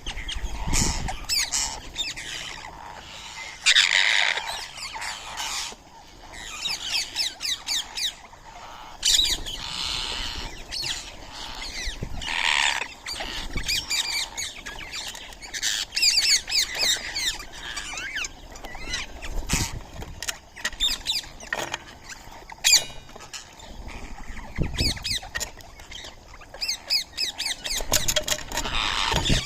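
Flock of Indian ringneck parrots (rose-ringed parakeets) squawking and chirping at a feeding spot, with many short, shrill calls coming in quick runs.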